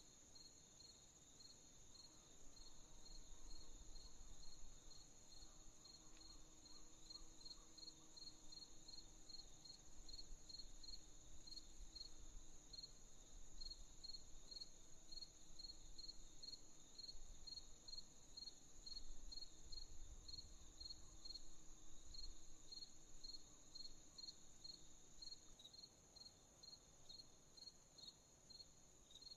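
Crickets chirping: a steady high trill under a second insect's regular chirps, about two a second, with a faint low rumble beneath.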